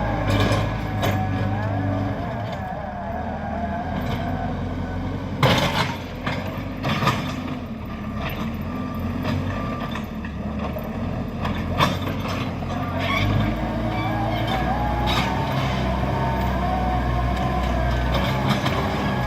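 JCB backhoe loader's diesel engine running, its note shifting with load. A few sharp clanks cut through, the loudest about five and a half and twelve seconds in.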